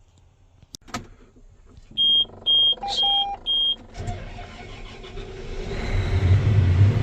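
Cab warning beeper sounding four short high beeps as a John Deere S680 combine's ignition is switched on, then the combine's engine cranks and starts about four seconds in, building to a steady low hum.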